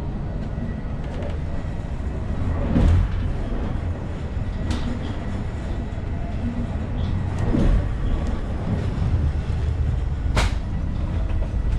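DB ICE 1 high-speed train running on the rails: a steady low rumble, with two brief louder surges about three and eight seconds in and a couple of sharp clicks around five and ten seconds in.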